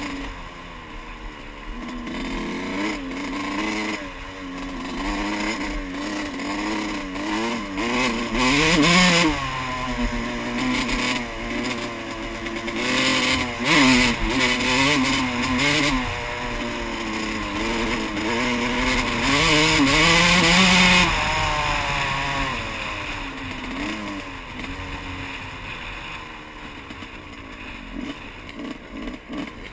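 Yamaha YZ125 single-cylinder two-stroke dirt bike engine revving up and down as it is ridden, its pitch climbing and dropping again and again. It is loudest in three surges, about a third in, near the middle and about two-thirds in, then eases off toward the end.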